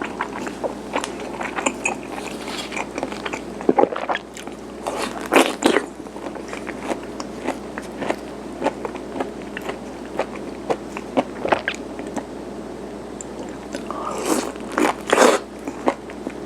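Chewing and biting garaetteok, chewy Korean rice cake sticks, close to the microphone: a stream of sticky, wet mouth clicks, with louder bites about five seconds in and again near the end.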